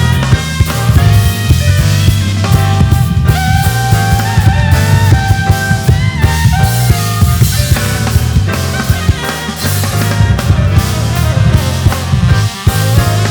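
Live band playing an instrumental groove: a heavy bass line, a busy drum kit, and keyboards with held melody notes, with a short break near the end.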